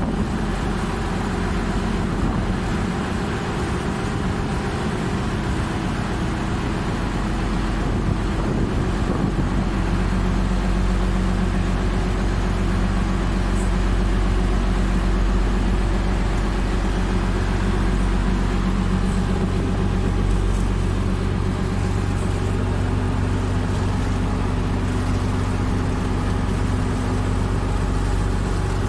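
Small river ferry's engine running steadily, a constant low hum with engine and water noise.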